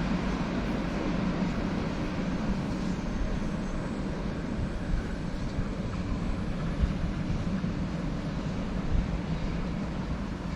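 A train rolling past with a steady low rumble that slowly fades.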